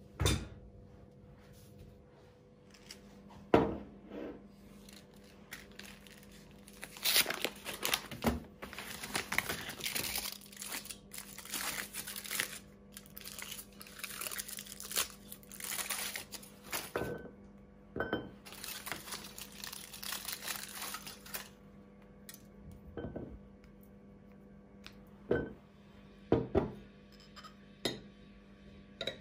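Rustling and crinkling, like paper or plastic packaging being handled, in long spells through the middle, with a few sharp knocks and clinks like dishes being set down.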